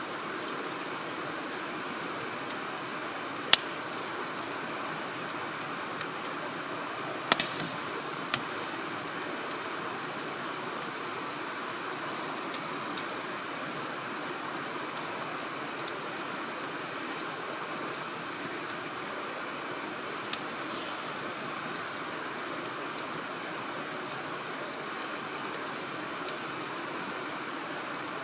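Wood fire burning, with sharp, irregular crackles and pops from the burning logs, a cluster of them about seven seconds in, over a steady rushing hiss.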